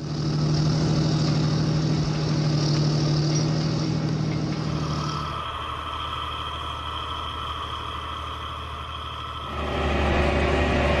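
Diesel engine of a John Deere 8520T track tractor running steadily. The sound changes abruptly about five seconds in and again near the end.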